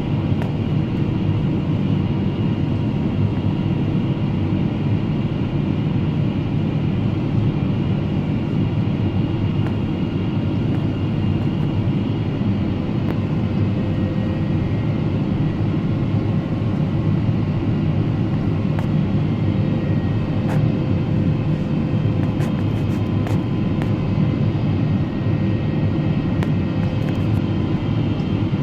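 Steady in-flight cabin noise of a Boeing 777-300ER: a constant low rumble of airflow and engines with a few faint steady whining tones above it.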